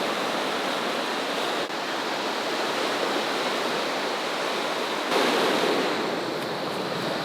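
Ocean surf washing onto the beach in a steady rush, with a louder wave breaking about five seconds in.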